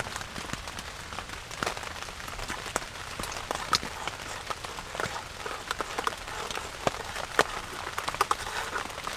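Steady rain falling, with many separate drops ticking sharply and irregularly close to the microphone.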